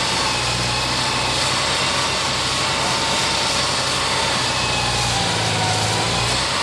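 Engine of construction machinery running steadily, with a constant level and a low steady hum.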